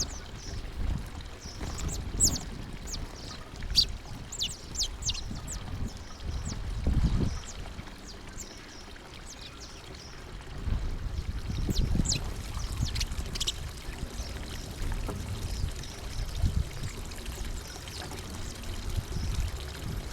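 Small birds giving short, high chirps in scattered bursts, over a gusty low rumble that rises and falls.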